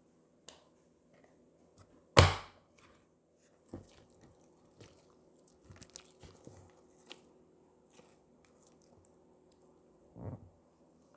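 Slime being squished and poked by hand: scattered small crackles and clicks, with one loud squish about two seconds in and a softer one near the end.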